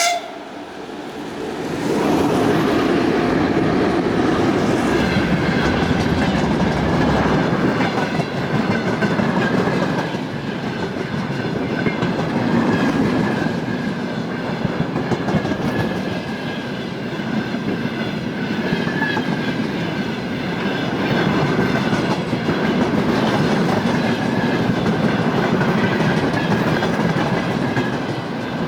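VL11 twin-section electric locomotive and its freight train passing close by at speed. The wheels clatter over the rail joints in a loud, steady run that sets in about two seconds in.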